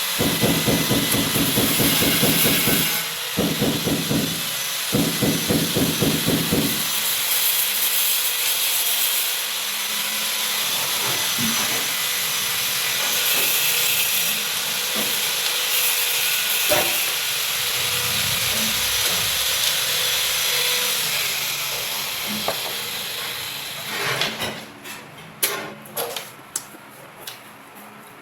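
A cooking pot steaming with a steady hiss, after a rapid, evenly pulsing rumble in the first seven seconds. Near the end come a few sharp clinks and knocks, as of utensils against the pot.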